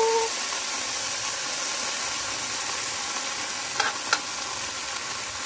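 Garlic frying in oil in a wok, sizzling steadily, with two quick clicks of a spatula against the wok about four seconds in.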